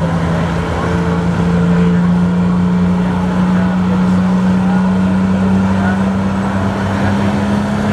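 Diesel pickup truck engine running hard at high revs during a truck pull, a steady drone whose pitch slowly creeps upward.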